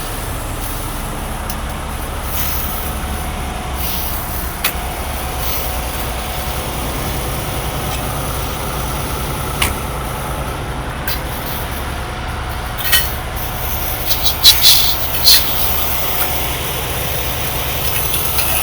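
Heavy-duty tow truck's diesel engine running steadily, with a few sharp knocks in the last few seconds.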